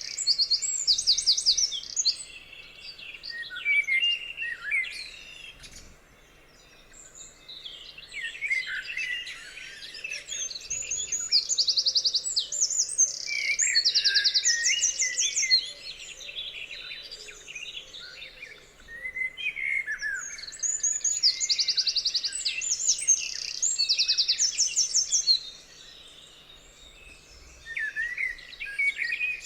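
Several songbirds singing together: a high, rapid trill phrase repeats every few seconds over a mix of varied chirps and warbles.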